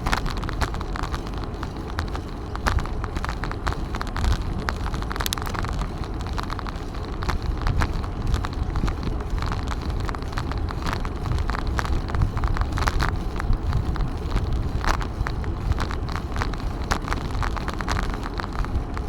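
Wind buffeting the microphone of a camera on a moving bicycle, a steady low rumble with frequent small clicks and crackles from the bike and its tyres on the path.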